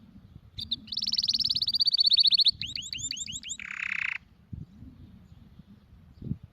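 Canary singing one phrase of song: a fast high trill, then a run of slower sweeping notes, ending in a short harsh buzzy note before it stops.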